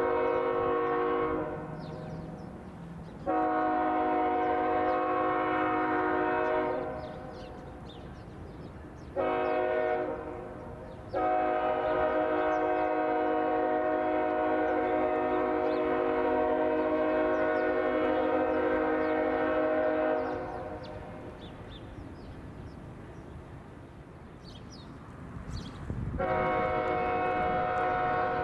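BNSF freight locomotive's multi-chime air horn blowing a series of blasts, long, long, short and a very long held one, the grade-crossing signal, with a low rumble of the train between blasts. Another long blast begins near the end.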